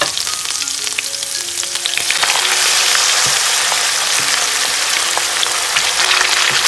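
Raw marinated chicken strips sizzling in hot oil with ginger-garlic paste in a frying pan over high heat, a steady hissing sizzle that grows louder about two seconds in.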